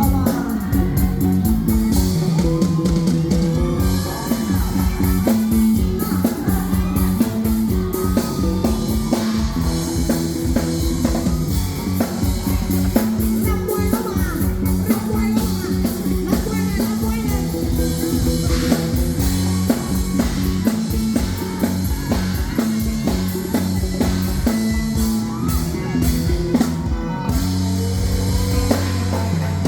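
Live rock band playing on stage: drum kit, electric guitar and bass, with singing.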